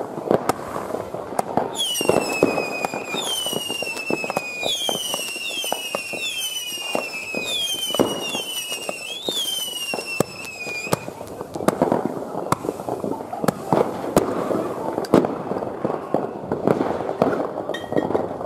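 Consumer fireworks going off: a steady scatter of bangs and crackles, and from about two seconds in until about eleven seconds a run of some eight overlapping whistles, each falling in pitch.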